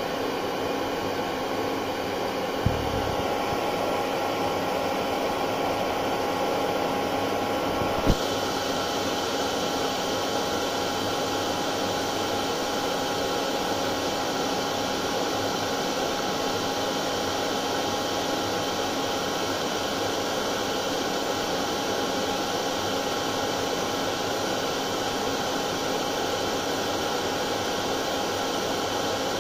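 Hair dryer running steadily: an even rush of blown air with a constant motor whine. Two brief soft knocks come about three and eight seconds in.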